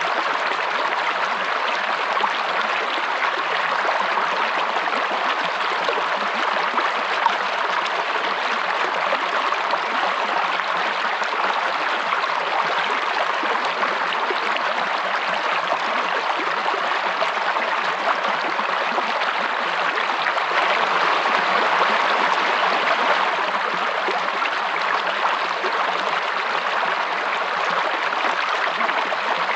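A stream running steadily, an even rush of flowing water that swells slightly about two-thirds of the way through.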